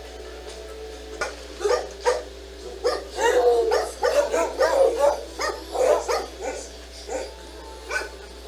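A dog barking in a quick run of short barks, starting about a second and a half in, densest in the middle, and thinning out near the end.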